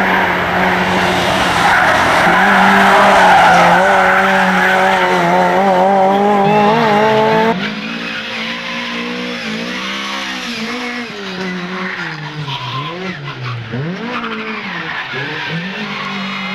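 Competition car engine running hard with tyres squealing, cut off sharply about seven seconds in; a quieter engine note then rises and falls repeatedly as the car is driven on.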